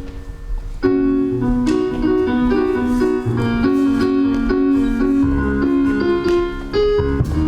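Electric keyboard playing slow, held gospel chords over low bass notes, the chords changing every second or so.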